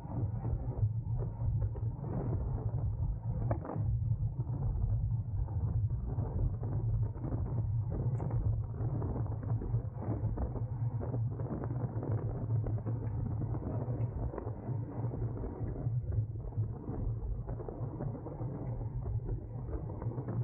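Wind rushing over the microphone of a camera on a road bicycle ridden at speed, with steady low road rumble and frequent small rattles and creaks from the bike.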